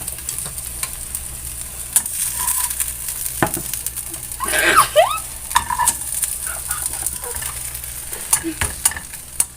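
A tortilla pizza sizzling in a frying pan, with clicks and scrapes of a utensil against the pan. About halfway through comes a brief high squeal.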